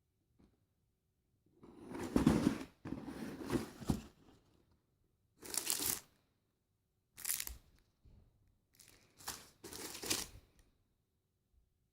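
Shoe packaging being handled and torn open: rustling, crinkling wrapping in about six short bursts of a second or less, separated by short quiet gaps.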